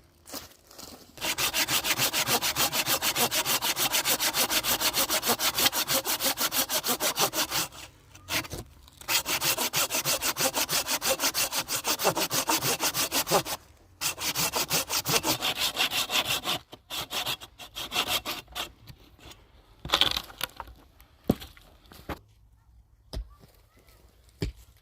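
Hand saw cutting through wood with fast, even strokes, in three runs with short pauses between them, then a few slower strokes and knocks near the end.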